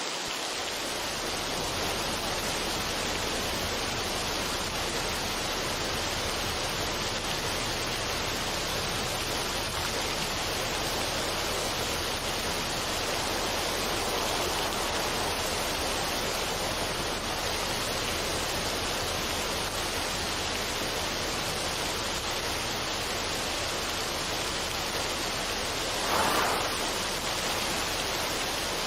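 Steady, even rushing noise of running water, with no tune or beat, and one brief louder swell near the end.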